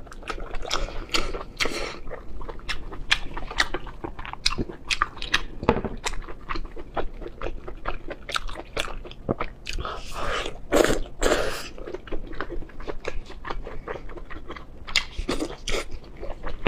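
Close-miked chewing of saucy braised lamb intestines: quick, irregular wet clicks and squelches of a mouth working on chewy offal, with a few louder wet mouth sounds about ten seconds in.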